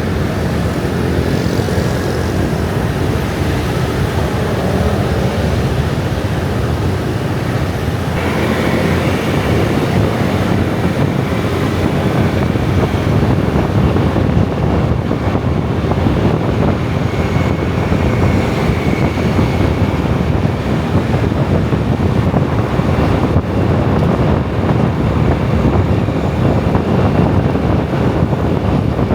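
Heavy traffic of many motor scooters streaming past: a steady drone of engines and tyres, with wind buffeting the microphone. The sound shifts in character about eight seconds in.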